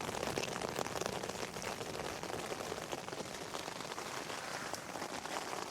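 Steady rain pattering on the flysheet of an OEX Raccoon 2.1 tent, heard from inside the tent as a dense, even patter of drops.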